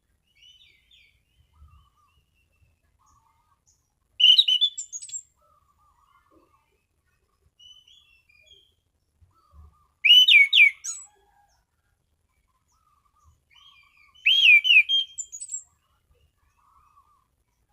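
Anis cendana thrush singing in its clear, open 'ngeplong' style: three loud, short phrases of quick sweeping notes about five seconds apart, with soft twittering in between.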